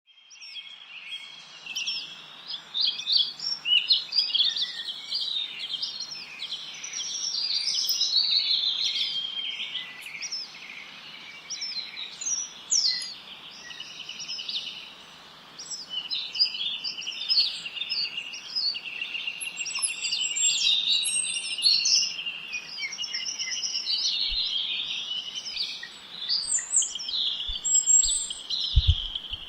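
Several songbirds singing and chirping at once, a dense chorus of overlapping trills and short calls.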